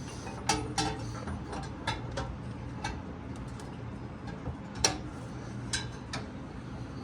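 Irregular sharp metallic clicks and knocks from a socket wrench on the crankshaft pulley bolt as the seized engine is forced over by hand, about ten in all, the loudest just before the five-second mark. The engine is bound up and only just beginning to move.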